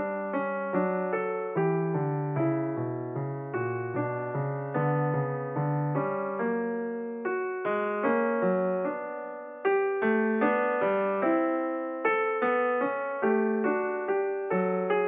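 Background piano music: a steady run of single notes, each struck and then fading, about two or three a second, growing louder again about two-thirds of the way through.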